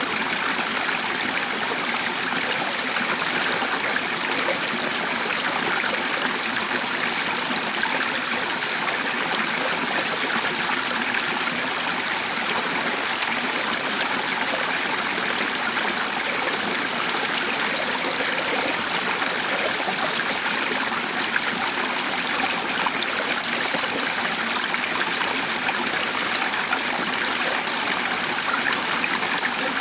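Stream water running steadily, an even rushing trickle with no breaks.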